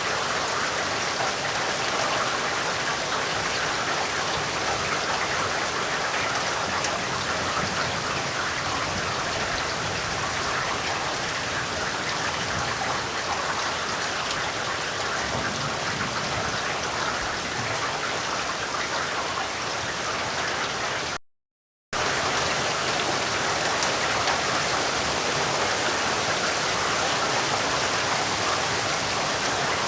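Steady rainfall, an even dense hiss of drops, with the sound cutting out completely for under a second about two-thirds of the way through.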